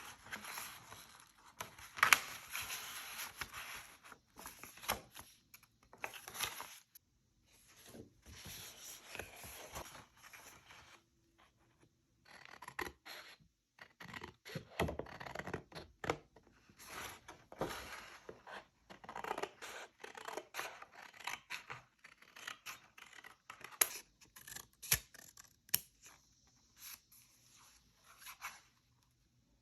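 Scissors cutting through paper in a series of rasping strokes with short pauses between them, with a few sharp clicks near the end.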